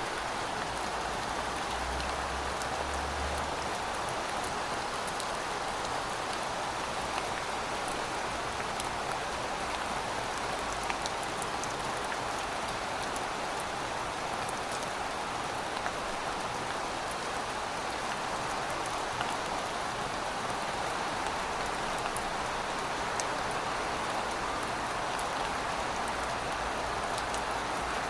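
Heavy rain falling steadily: a dense, even hiss with scattered sharp ticks of individual drops.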